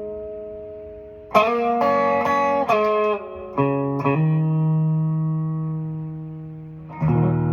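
Outro music on guitar: a chord dying away, a short run of picked notes about a second in, a long ringing note, then a fresh chord struck near the end.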